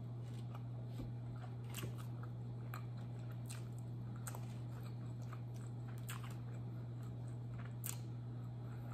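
Close-miked chewing of a mouthful of butter chicken: soft wet mouth sounds and small scattered clicks, over a steady low hum.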